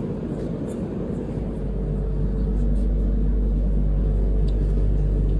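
Low rumble of a train, swelling about a second and a half in and then holding steady.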